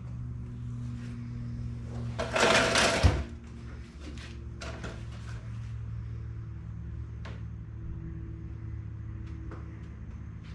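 Body filler being laid on with a spreader: one loud scrape about two seconds in that ends in a knock, then a few faint short scrapes, over a steady low hum.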